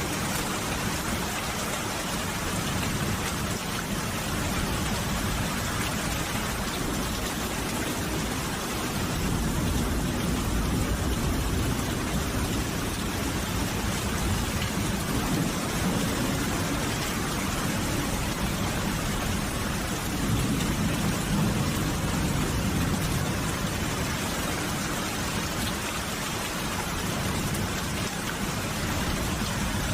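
Steady rain falling, an even hiss of drops with a low rumble underneath that swells a little twice.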